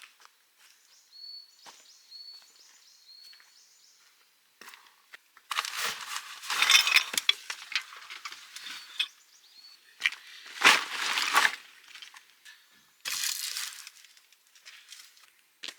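Dry sticks and leaf litter crunching and cracking in three rough bursts, the longest in the middle, as of dead wood being broken or trodden underfoot.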